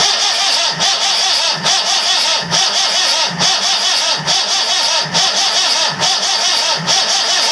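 Starter motor steadily cranking a Perkins 4.236 four-cylinder marine diesel with an even, rhythmic beat. The engine, recently flooded with salt water, does not fire or catch.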